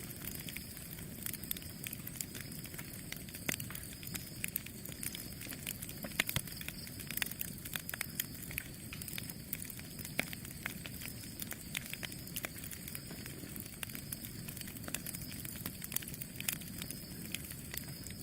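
Campfire crackling: frequent irregular sharp pops and snaps of burning wood over a steady low rush of the flames.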